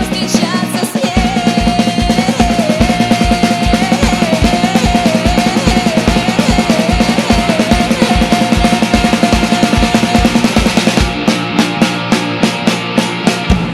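Rock band playing an instrumental break: a lead instrument carries a wavering melody over a steady kick-drum beat, bass and drums. About ten seconds in, the melody drops out, leaving the drums and bass.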